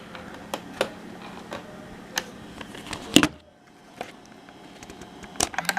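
Small clicks and taps of camcorder buttons and switches being handled, with a louder click about three seconds in. A faint steady hum cuts out just after that click and returns near the end.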